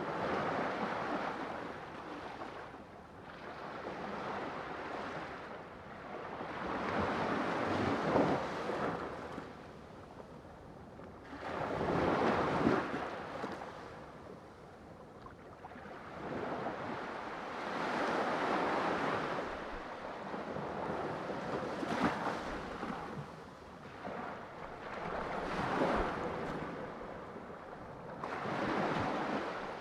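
Ocean surf: waves breaking and washing in, the rush swelling and falling away about every three to five seconds.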